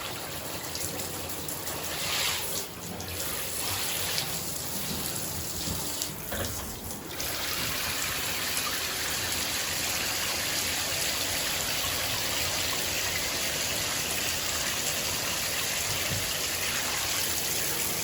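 Shower water running and splashing as a parrot is washed under it; the spray changes over the first several seconds, then runs steadily.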